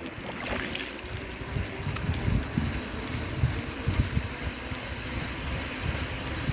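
Bicycle tyres hissing on a wet road while riding, with wind buffeting the microphone in irregular low gusts.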